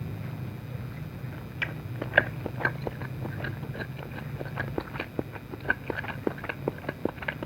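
Close-miked chewing of dim sum, starting about a second and a half in: quick, wet mouth clicks, about three a second.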